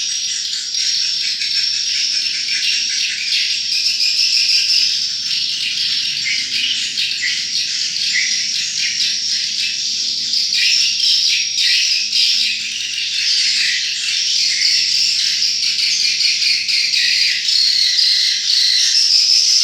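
Swiftlets twittering: a continuous, high-pitched chatter of many short overlapping chirps.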